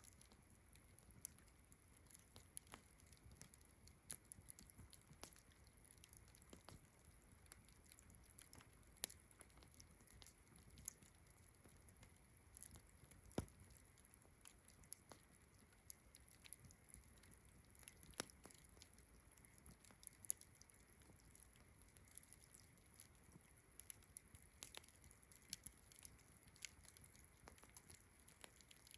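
Wood campfire crackling quietly, with irregular snaps and pops a few times a second, over a steady high chirring of distant crickets.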